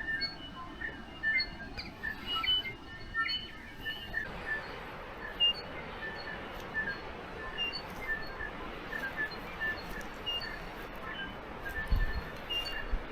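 Dawn chorus of many birds: short, scattered chirps and calls from several birds over a steady background hiss, with a brief low bump near the end.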